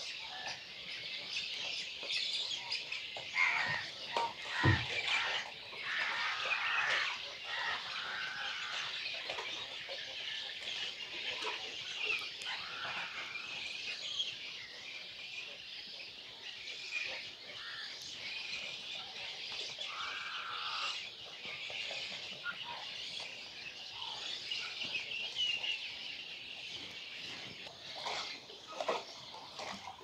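Many birds chirping and calling at once in a dense, steady chorus, with a few louder calls standing out over it.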